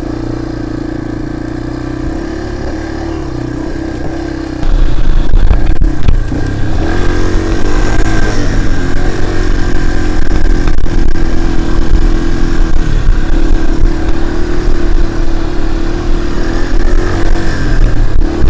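Dirt bike engine running steadily under way on a muddy trail. About four and a half seconds in, a much louder low rumble comes in and stays to the end.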